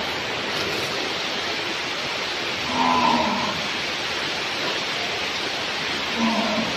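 Cattle mooing twice, a longer call about three seconds in and a shorter one near the end, over a steady hiss.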